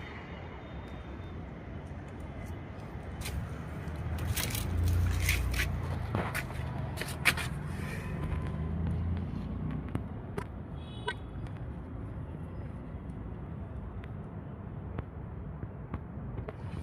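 Low rumble of a motor vehicle that swells about four seconds in and fades after nine. Scattered knocks and scrapes run over it, the sharpest a single knock a little after seven seconds.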